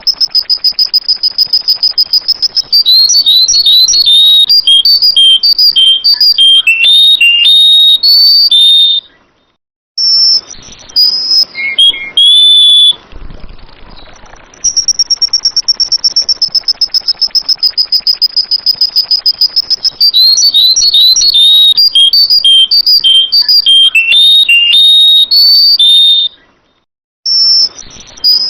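Sooty-headed bulbul (kutilang) singing loudly: a fast run of repeated high notes, then a string of varied, bubbly whistled phrases, broken by short pauses. The whole sequence starts over about fifteen seconds in, as in a looped recording.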